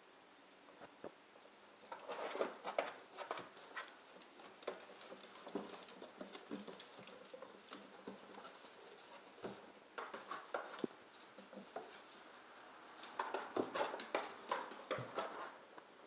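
A dog tearing and chewing at a cardboard box: bursts of ripping and crackling cardboard, loudest about two seconds in and again near the end.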